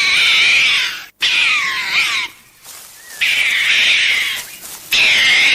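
An animal calling: about four loud, high-pitched calls, each about a second long, gliding down in pitch.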